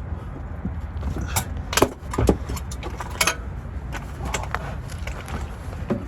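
Steel hand tools and bolts clinking and clanking against metal in a run of irregular sharp hits, the loudest about two seconds in, over a steady low rumble.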